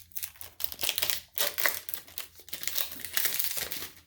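Foil booster pack wrapper crinkling and rustling in irregular bursts as it is handled and torn open.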